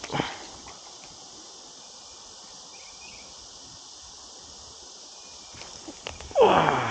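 Steady high-pitched insect chorus over quiet creek-side ambience, with a brief click right at the start. Near the end a man gives a loud groan that falls in pitch.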